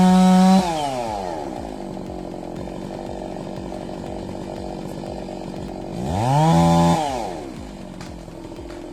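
Chainsaw engine held at full throttle, then let off about half a second in, its pitch falling to a lower steady idle. It is revved briefly once more near the end, rising and falling back to idle.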